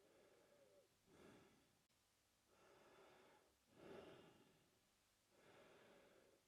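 A man breathing slowly and evenly through his mouth, faint. Each breath has a longer, softer airy part and a shorter, louder one, repeating about every two and a half to three seconds.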